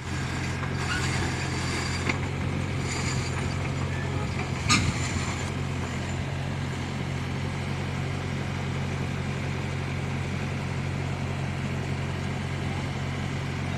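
A 5.5-ton mini excavator's diesel engine running steadily, with a few short metallic squeaks and clanks in the first five seconds, the sharpest about five seconds in.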